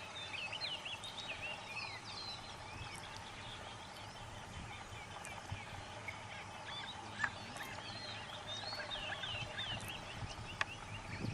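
Wild birds chirping and calling together, many quick rising and falling chirps overlapping, with a single sharp click about seven seconds in.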